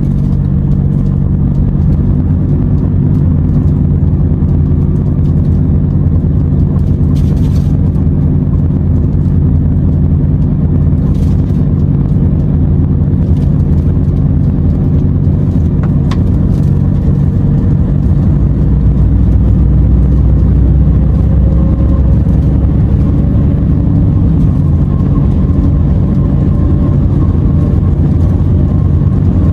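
Renault T480 truck's diesel engine running steadily under way, with road and tyre rumble; the low drone deepens and grows a little louder around the middle.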